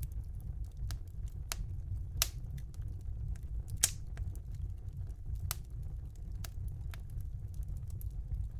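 Wood fire in a fireplace crackling: scattered sharp pops and ticks, two louder pops a little after two seconds and near four seconds in, over a steady low rumble.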